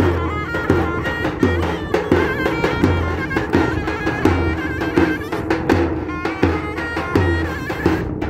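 Davul and zurna playing a Turkish folk tune: the zurna's shrill, reedy melody over the davul's deep bass-drum strokes, about one a second, with lighter stick taps between.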